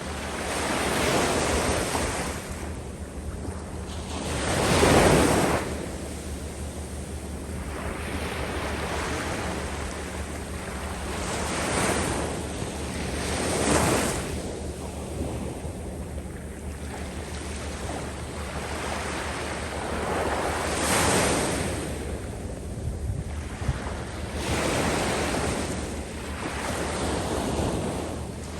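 Waves breaking and washing up over a sand beach, surging in swells every few seconds, the loudest about five seconds in. Wind rumbles on the microphone throughout.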